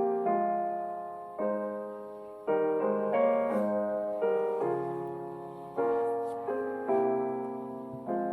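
Slow, gentle piano music: sustained chords struck about every second or second and a half, each fading away before the next.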